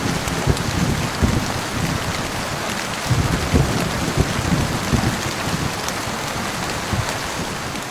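Heavy rain falling steadily, with low thunder rumbling through it in rolling waves. The rumble is strongest about three to five seconds in.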